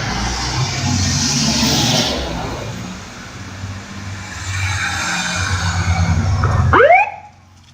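1994 Simon Duplex fire pumper's engine pulling away and building up, with a rushing hiss over the first two seconds. Near the end the engine drops away and its siren gives a sharply rising whoop.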